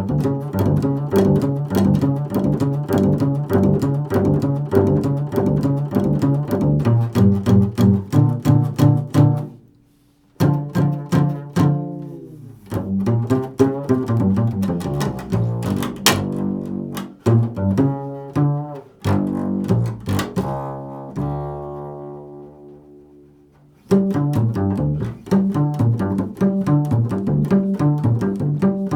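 Double bass played pizzicato in an improvised solo: a busy run of plucked low notes that breaks off briefly about ten seconds in, then lets one note ring out and fade for a few seconds before the plucking starts again.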